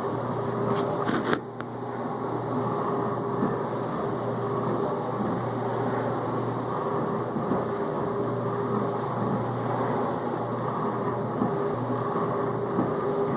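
Whirlpool dishwasher in its main-wash circulation: the pump hums steadily while water sprays and splashes inside the tub, with a brief clack about a second in.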